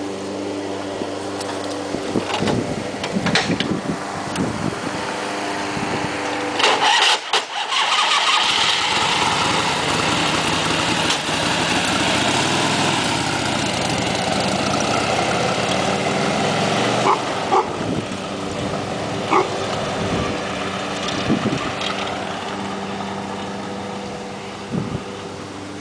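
1971 Harley-Davidson FLH's rebuilt S&S 93-inch stroker V-twin running at a steady idle, with a few sharp clunks about seven seconds in. The revs then rise and fall for about nine seconds as the bike is ridden off, before the engine settles back to a steady idle.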